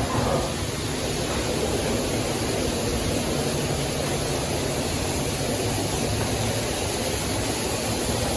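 PDQ LaserWash 360 touchless car wash running, a steady rushing hiss of high-pressure water spray pounding the car.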